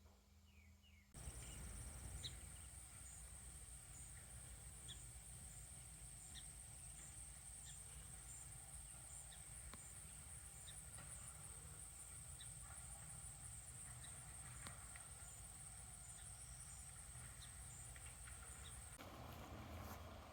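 Faint rural outdoor ambience: a steady, high-pitched pulsing drone with scattered short bird chirps over a low rumble. It starts abruptly about a second in and cuts off shortly before the end.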